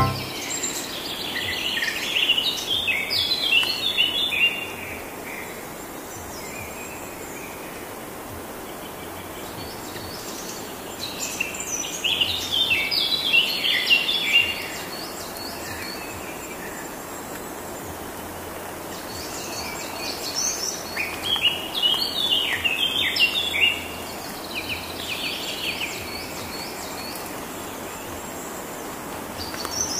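A bird singing three long phrases of rapid, high, stepping notes, each about four seconds long and roughly ten seconds apart, over a steady outdoor hiss.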